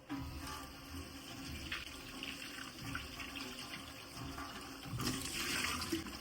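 Water running from a tap into a sink, starting suddenly and running steadily, a little stronger about five seconds in.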